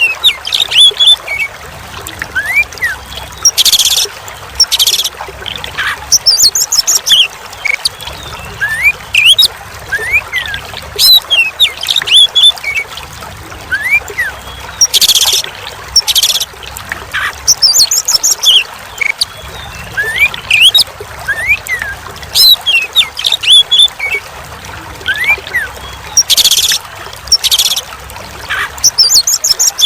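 Oriental magpie-robin (kacer) singing a varied run of whistled notes, rising and falling glides and chirps over steady trickling water. The song pattern repeats about every 11 seconds, as in a looped training track.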